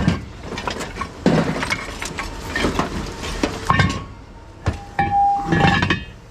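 Scrap metal pieces clinking and knocking together in a run of sharp, irregular impacts, with a brief ringing tone about five seconds in.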